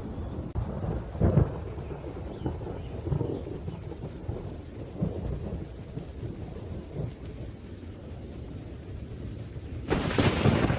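Thunderstorm with rain: thunder rumbles throughout, with a loud clap about a second in and a sharper, brighter crack of nearby thunder near the end.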